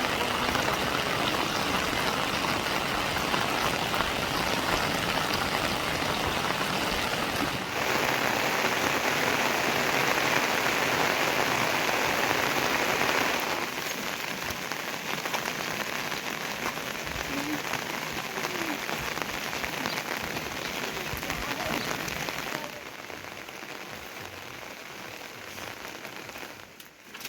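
Heavy rain falling, a steady dense hiss. It changes abruptly three times, louder for a while, then quieter in steps toward the end.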